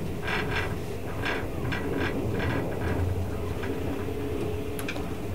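Steady running noise of a Twilight Express passenger coach at speed, heard inside the car: a low rumble of wheels on rail, with faint regular clicks.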